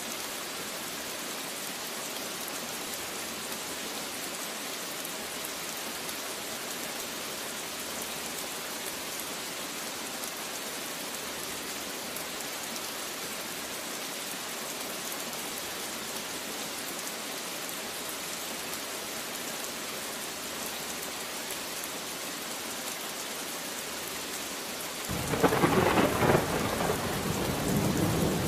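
Steady rain falling as an even hiss. Near the end a thunderclap breaks in suddenly and rumbles on.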